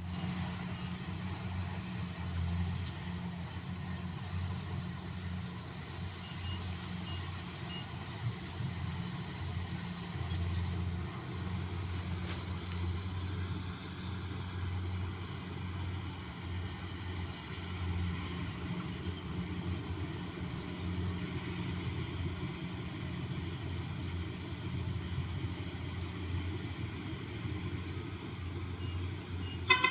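An engine running steadily with a low hum, with short high rising chirps repeating about once a second above it.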